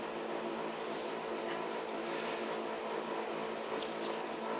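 A pump's electric motor running with a steady hum, joined by a few faint clicks.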